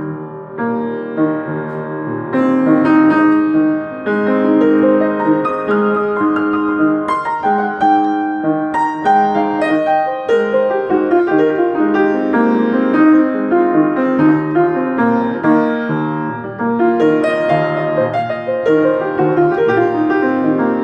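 Solo piano improvisation: a continuous flow of sustained chords and melodic notes, with a slightly quieter dip near the start.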